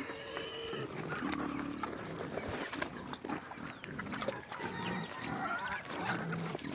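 Farm animals calling: short pitched calls and low grunts among scattered small clicks and knocks.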